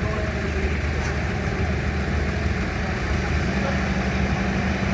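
A vehicle engine running steadily, with a second, higher engine hum joining about three and a half seconds in.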